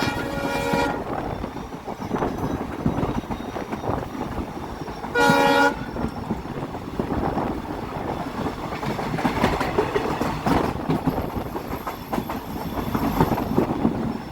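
Diesel locomotive horn, a blast ending about a second in and a second short blast about five seconds in, over the steady running noise of the train on the track.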